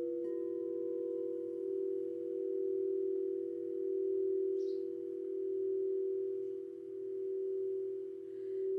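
Singing bowls ringing on two steady, overlapping tones. The sound swells and fades in slow waves every couple of seconds.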